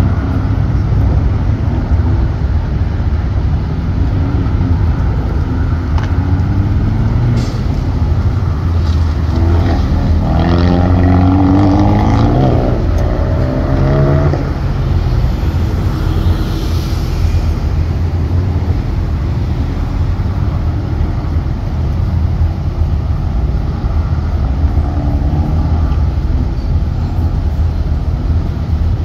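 Small convertible sports car running an autocross course through cones. Its engine revs up and down between accelerating and braking for the turns, loudest about ten to fourteen seconds in, over a steady low rumble.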